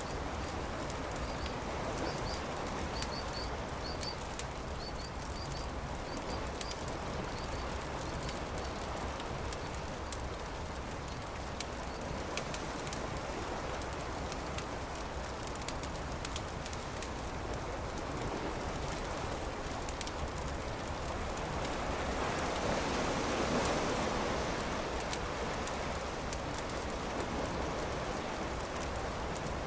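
Campfire crackling with many small sharp pops over the steady wash of surf, one wave swelling louder about three-quarters of the way through. A small bird chirps in short paired notes during the first several seconds.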